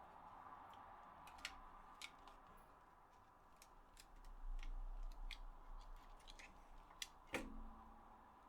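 Faint, scattered small clicks and taps of plastic parts being handled inside an opened PS4 DualShock 4 controller during repair, with a slightly louder knock near the end.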